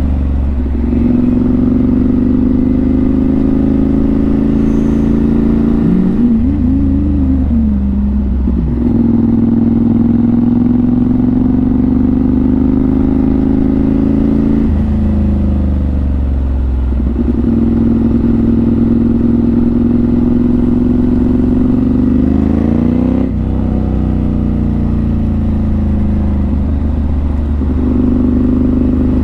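Motorcycle engine running under way, heard from the rider's helmet. Its pitch climbs and then drops sharply several times, as with throttle changes and gear shifts.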